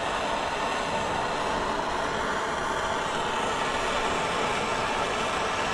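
Steady rushing hiss of a torch flame heating a large seized nut to loosen it.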